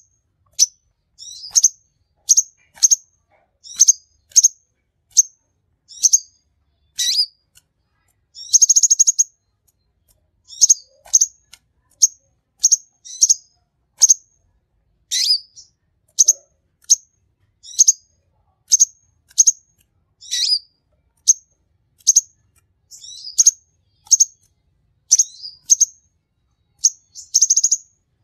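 A sunbird kept as a songbird, called a konin, singing vigorously: a long run of short, sharp, high chirps, about one to two a second. Two rapid buzzy trills break in, about a third of the way in and near the end.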